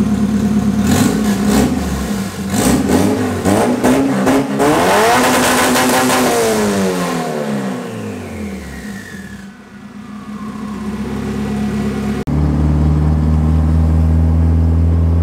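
Turbocharged Honda K20 engine, newly fitted with an eBay turbo, blipped several times and then revved up, its pitch rising and falling back down. After a cut about twelve seconds in, a steady low engine drone heard from inside the cabin.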